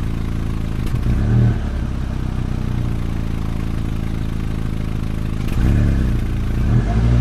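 A vehicle engine running steadily with a low hum. It swells louder briefly about a second in and again near the end.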